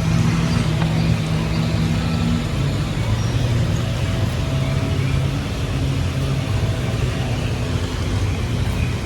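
Car running with engine and road noise, a steady low engine note that drops in pitch about two and a half seconds in.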